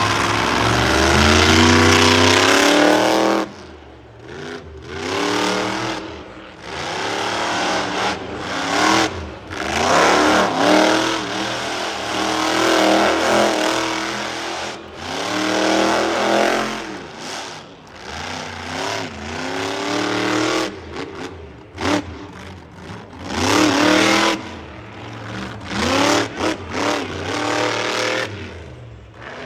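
Monster truck engine revving hard in repeated surges, its pitch climbing and falling as the throttle is opened and lifted every few seconds.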